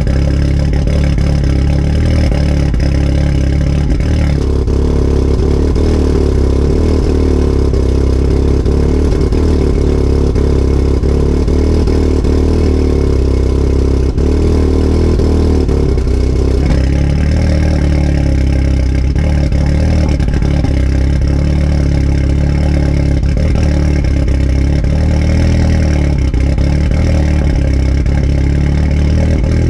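Volkswagen Golf R 2.0-litre turbocharged four-cylinder idling steadily after a cold start on E85, heard through a catless downpipe and a Remus valved exhaust that has a leak just before the resonator. The exhaust tone changes about four seconds in and changes back a little past halfway.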